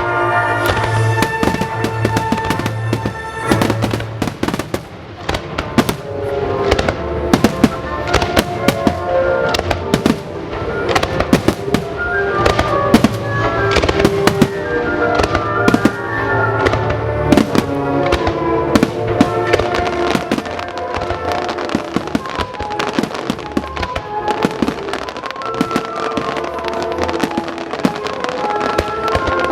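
Fireworks display: a rapid, continuous string of sharp bangs and crackles from bursting shells, over music with held notes.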